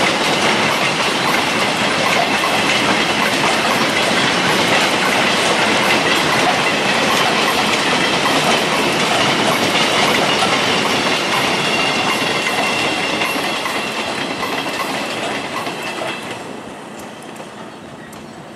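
Empty double-deck car-carrier wagons rolling past, their wheels clattering on the rails with a thin, steady high squeal over the rumble. The noise fades away from about fourteen seconds in as the end of the train passes and recedes.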